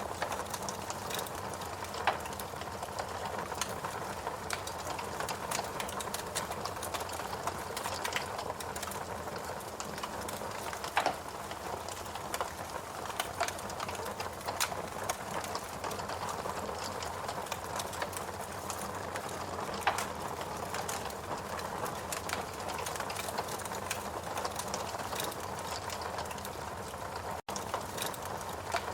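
Wood fire crackling steadily in a fireplace: a dense run of small crackles over a soft hiss, with a few louder pops, one about two seconds in and one about eleven seconds in. The sound cuts out for an instant near the end.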